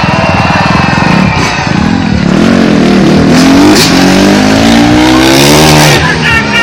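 Motorcycle engine revving, its pitch rising and falling several times in the middle of the stretch.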